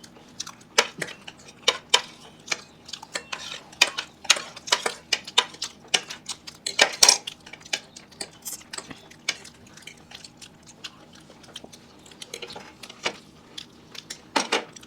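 Eating utensils (spoons, forks and chopsticks) clinking against plates and bowls during a meal: irregular sharp clicks, one or two a second, the loudest about seven seconds in.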